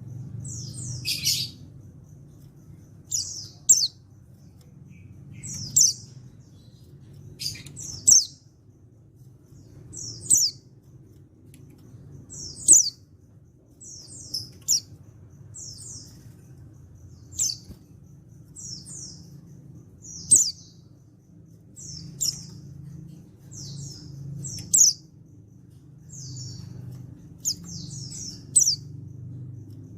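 Male white-eye (pleci) calling: short, high chirps, singly or in quick pairs, every second or two, over a faint steady low hum.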